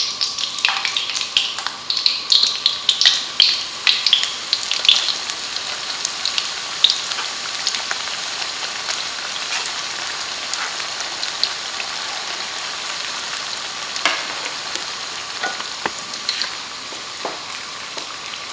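Thin slices of tempe dropped into hot oil in a steel wok, sizzling and crackling hard for the first few seconds, then settling into a steady frying hiss. Near the end a spatula stirring in the wok gives a few knocks.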